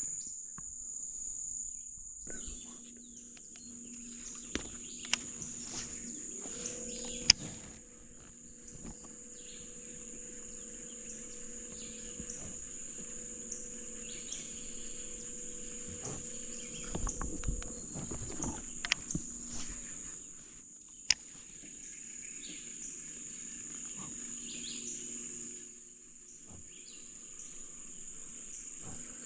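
Steady, high-pitched chorus of insects, with a few sharp knocks, the loudest about seven seconds in and again about twenty-one seconds in.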